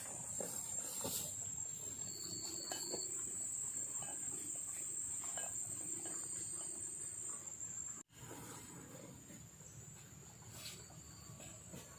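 Night insects keeping up a steady, high-pitched drone. It cuts out abruptly about eight seconds in, then carries on quieter.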